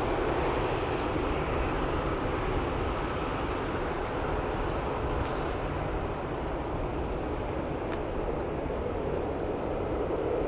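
Boeing 747-8F freighter's GEnx-2B jet engines making a steady, even roar with a low rumble beneath it.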